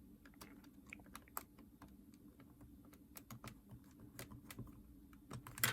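Faint, irregular small clicks and taps of plastic parts being handled and fitted as a Nintendo DS Lite handheld is put back together. There is a sharper click just before the end.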